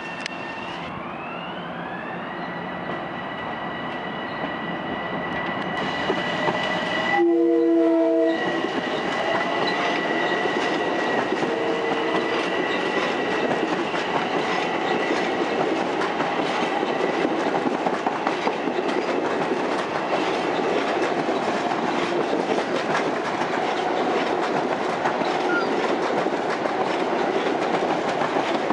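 Long Island Rail Road M7 electric multiple-unit train coming in and running past close by. A high electric whine rises about a second in. The horn gives one short blast of several notes at once about seven seconds in. Then the cars rumble past with a steady clickety-clack of the wheels.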